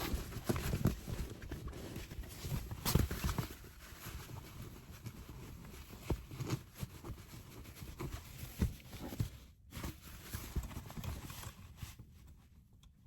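Irregular knocks, taps and rustling handling sounds, loudest in the first few seconds and growing sparser and quieter after that.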